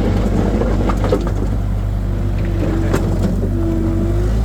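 Skid steer engine running steadily, heard from the operator's seat, with a faint whine rising slightly in pitch over the second half and a couple of brief knocks, one about a second in and one near three seconds.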